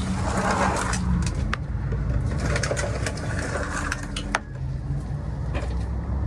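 C6 Corvette's V8 idling through newly fitted budget aftermarket headers and X-pipe, a steady low rumble. Its tone settles slightly lower about four seconds in.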